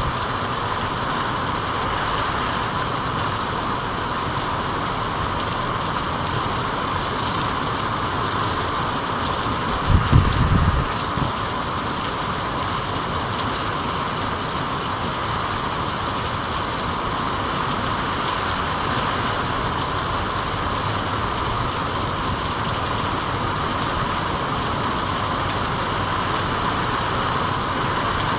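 Steady rain falling, an even hiss that never lets up, with a brief low rumble and a few thuds about ten seconds in.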